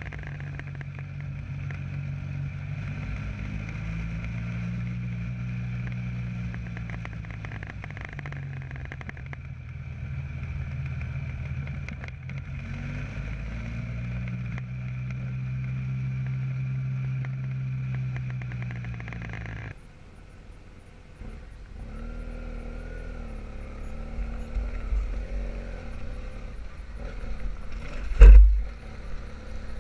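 Motorcycle engine running under way, its pitch slowly rising and falling with speed. About twenty seconds in the sound cuts abruptly to a lower, rougher vehicle engine, with one loud knock near the end.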